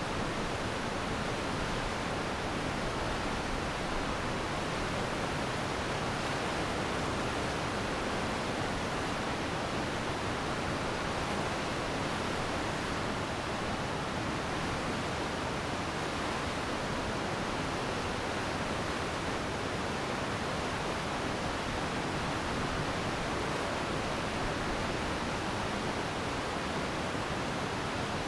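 Glacier meltwater stream rushing steadily, a dense even rush of water with no breaks.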